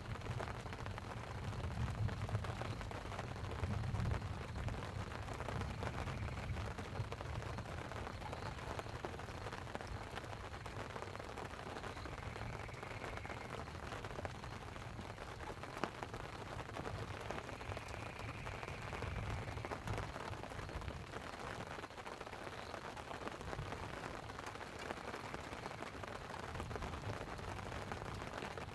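Light rain pattering steadily on a tent, with distant thunder rolling low underneath, swelling in the first few seconds and again about two-thirds of the way through.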